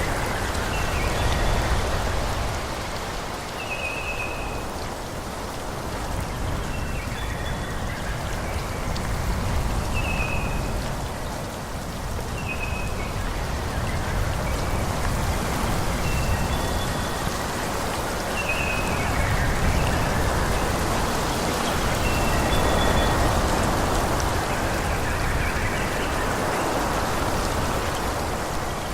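Wind blowing through forest trees, swelling and easing in gusts, with birds chirping repeatedly in short high notes throughout.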